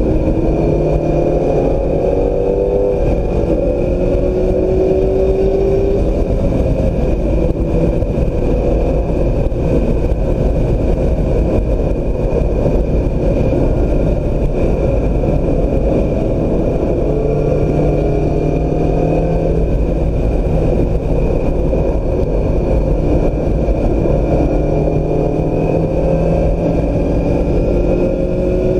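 2016 Mazda MX-5 Miata's four-cylinder engine being driven hard on a racetrack, its pitch climbing under acceleration several times, over steady road and wind noise.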